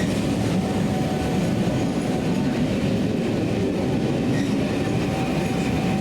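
A train running on the rails close by, a loud steady mix of running and wheel noise with no break.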